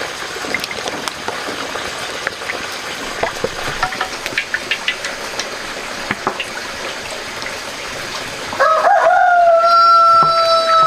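A rooster crowing once near the end, one long call held on a steady pitch after a short rise. Before it, scattered light clicks and knocks over a steady background hiss.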